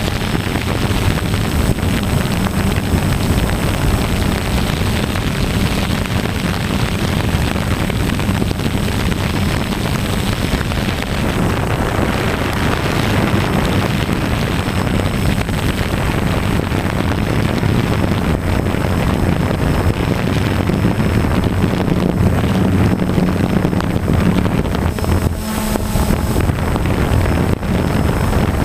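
DJI Phantom quadcopter's propellers and motors running steadily in flight, a continuous buzz with a faint high whine.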